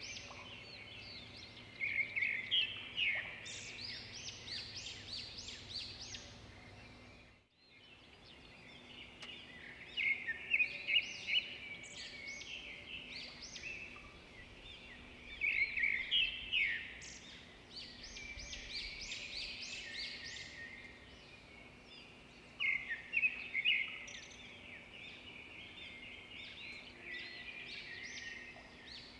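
Birds chirping and calling in quick runs of short, sharp notes that come in bursts every few seconds over a faint steady background. The sound cuts out completely for a moment about seven and a half seconds in.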